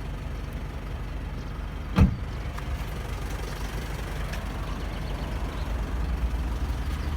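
Turbodiesel car engine idling steadily, left running to cool its turbocharger before shutdown. A single sharp knock about two seconds in.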